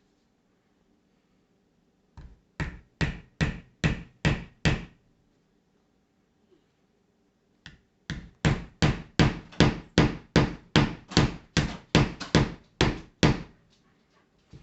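Hammer driving short nails into a wooden kit piece: a run of about seven quick strikes, a pause of a few seconds, then about fifteen more at two to three strikes a second.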